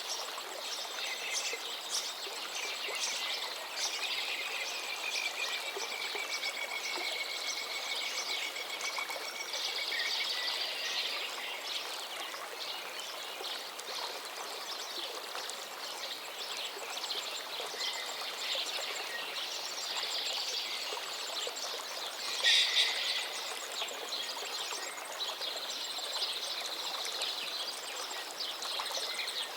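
A river flowing steadily under continuous songbird singing, with many overlapping phrases and trills. One call about two-thirds of the way through stands out as the loudest.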